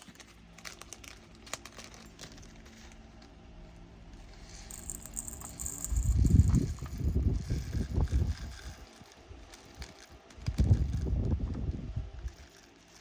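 Small plastic bags of resin diamond-painting drills being handled, with crinkling, light rattling and clicks, and two stretches of heavier low bumping and rubbing about six seconds in and again near eleven seconds.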